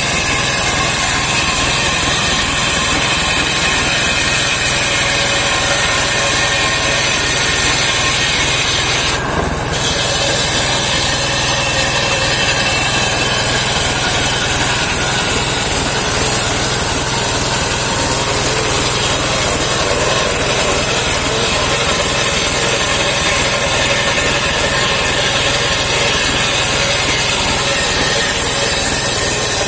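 Engine-driven homemade circular sawmill running steadily, its blade sawing through a saman (rain tree) log, with a brief break in the sound about nine seconds in.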